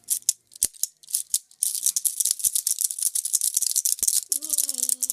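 Rapid, continuous rattling of something small being shaken. It starts as scattered clicks and thickens into a steady rattle about a second and a half in. A voice joins near the end.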